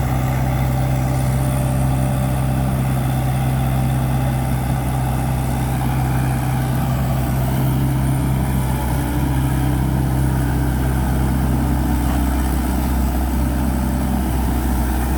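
Heavy diesel engine of earthmoving machinery running steadily at low revs, with an even low drone that does not rise or fall.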